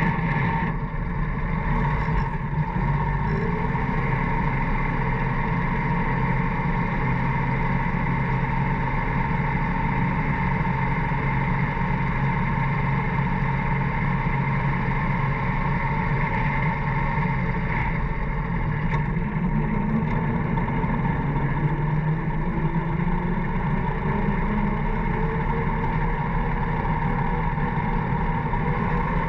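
Allis-Chalmers motor grader's engine running steadily, its pitch sliding up and down briefly near the start and again about twenty seconds in.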